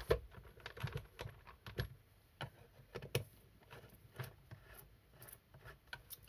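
Irregular light clicks and taps of a hand tool and plastic and metal parts as a cover is unscrewed and lifted off a McCulloch 438 chainsaw.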